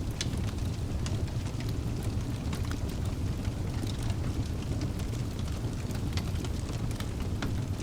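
Wood fire burning in a fireplace: a steady low rumble of the flames with many irregular small crackles and pops from the burning logs.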